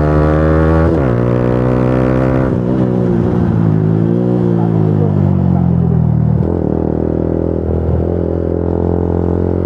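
Motorcycle engine under way: it accelerates with a gear change about a second in, revs rise again, then the engine note falls away as the bike slows and settles to a steady lower note for the last few seconds.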